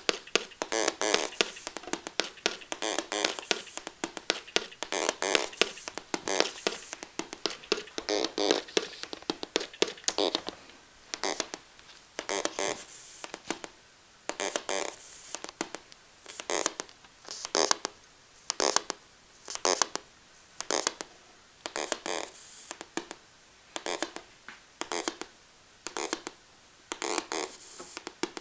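Small LED speakers playing a buzzy electronic novelty sound track of short bursts, packed closely at first, then settling into about one burst a second.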